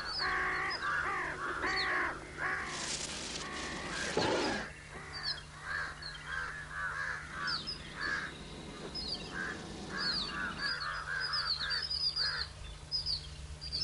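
Birds calling: many short repeated harsh calls with higher chirping notes among them, and a brief noisy rustle about three to four seconds in, over a steady low hum.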